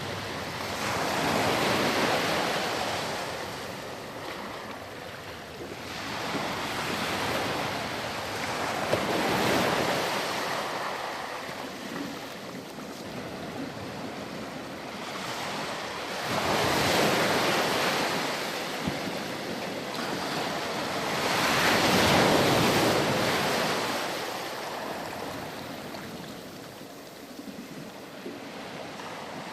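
Ocean surf breaking and washing back on a sandy beach. Four waves rise and fall in turn, each swell of rushing water lasting several seconds.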